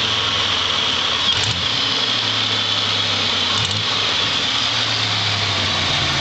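Supercharged 3800 V6 of a 2000 Pontiac Grand Prix idling through a Borla cat-back exhaust with no resonator. It is blipped briefly twice, about a second and a half in and again near four seconds, each time with a few light ticks. The owner hears this tick from the crossover area only when the throttle is stabbed.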